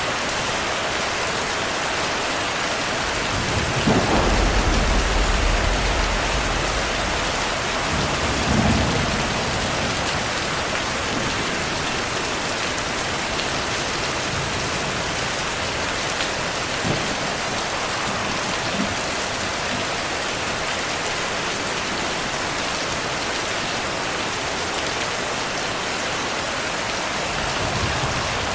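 Steady heavy rainfall with a deep thunder rumble about four seconds in that swells and fades over a few seconds, then a shorter, weaker rumble a few seconds later.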